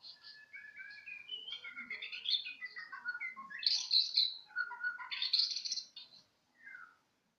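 A young bahorok songbird singing a rapid, varied run of chirps and warbled notes that slide up and down, with two louder, harsher bursts in the middle and a short falling note near the end.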